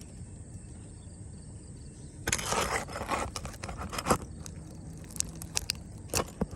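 Rough scraping and crunching from roofing work, starting about two seconds in, broken by sharp clicks and knocks.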